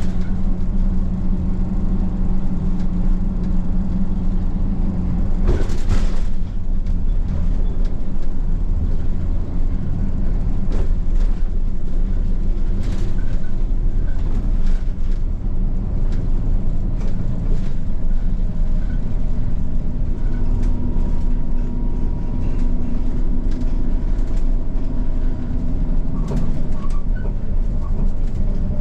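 Bus engine running and road noise heard inside the bus, a steady low hum whose pitch shifts with the gears and speed, with light rattles and clicks throughout. A brief rushing burst about six seconds in.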